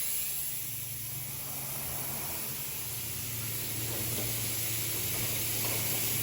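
Compressed air hissing steadily as an air-operated overhead door closes, the system letting out a lot of pressure, with a low steady hum underneath.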